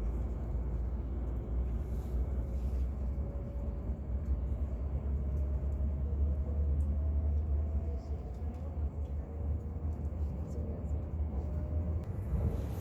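Shinkansen bullet train running at speed, a steady low rumble as heard inside the passenger car.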